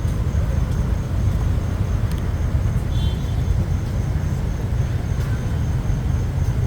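Steady low rumble of road and traffic noise while riding through city streets.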